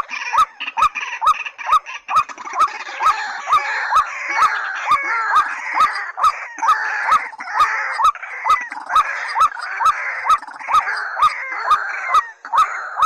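White-breasted waterhen and watercock calling: a hooked call repeated steadily about two and a half times a second, with sharp clicks in the same rhythm over a dense chorus of other calls.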